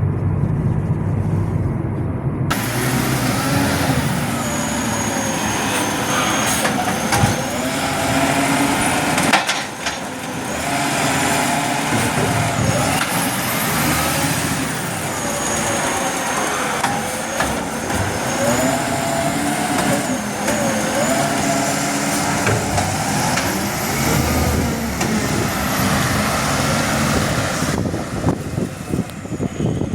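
Garbage truck running close by: a low engine rumble, then from about two seconds in a louder, dense mechanical noise with whines that rise and fall again and again.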